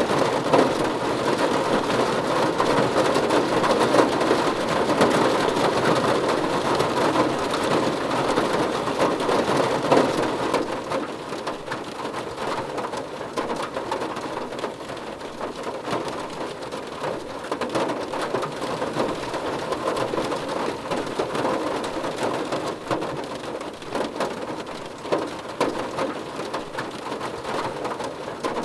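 Steady rain falling on a surface, a dense, even patter of drops that eases slightly about ten seconds in.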